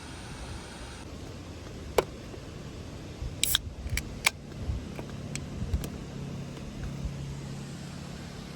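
A sharp click, then a short cluster of clicks with a brief metallic jingle, over a low steady hum that becomes clearer in the second half.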